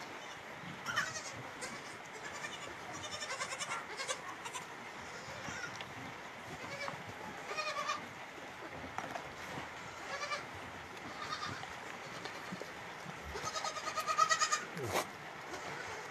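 Young goat kids bleating again and again, short wavering calls every second or two, with a longer, louder bleat near the end.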